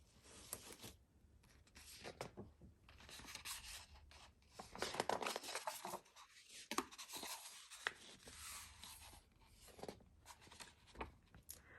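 Faint paper rustling and rubbing, irregular and scraping: a picture book being handled and its pages turned.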